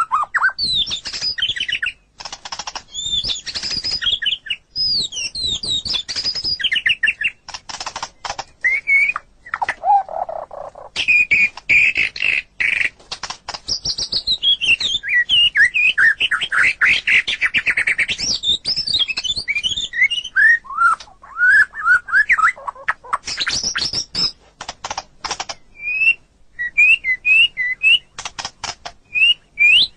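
White-rumped shama (murai batu) singing a long, varied song: quick whistled phrases gliding up and down, mixed with dry clicking and rattling notes and short pauses between phrases.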